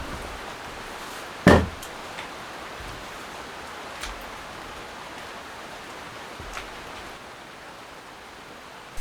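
Steady hiss of rain, with one loud sharp knock about a second and a half in and a couple of faint ticks later.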